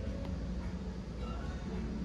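A steady low rumble with faint music over it.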